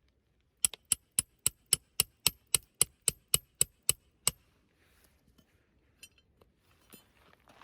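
A hammer striking metal in a quick steady series of about fourteen ringing blows, around four a second, which stops after about four seconds; faint rustling and small clicks follow.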